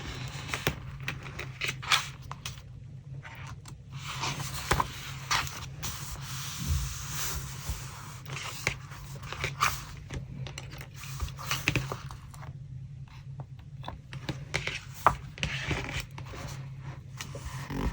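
Paper and stationery being handled for a collage: sheets rustling and scraping, with scattered short taps and clicks, over a steady low hum.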